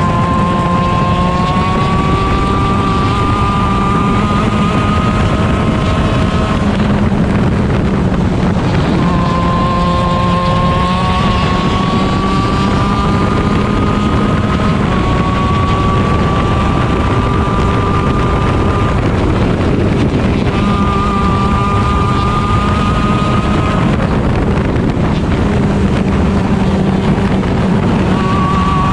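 Stock Honda 125cc two-stroke shifter kart engine at high revs, heard onboard with wind on the microphone. Its note climbs slowly through long pulls and breaks off several times between them.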